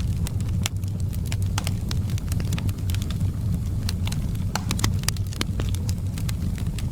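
Wood fire burning in a fireplace: frequent, irregular sharp crackles and pops from the logs over a steady low rumble of the flames.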